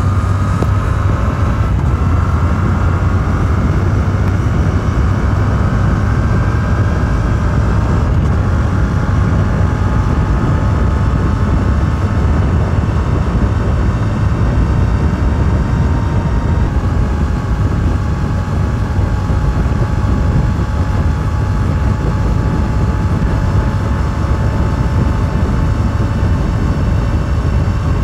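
Yamaha R7's 689 cc parallel-twin engine running through its stock exhaust while the bike rides along at a fairly steady speed. The engine pitch rises a little at the start, then holds steady over a heavy low rumble, shifting slightly a couple of times.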